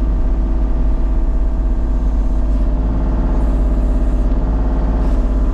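A heavy vehicle engine running steadily at low revs, its note shifting slightly about three seconds in.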